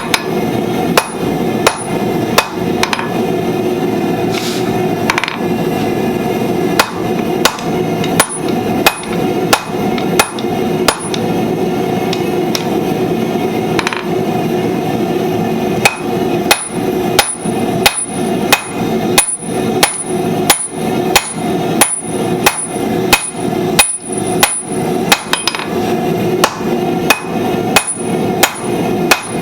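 Hand hammer striking hot steel on an anvil while forging tongs: a steady run of ringing blows, one or two a second, thinning out for a few seconds in the middle. A steady rushing noise runs underneath.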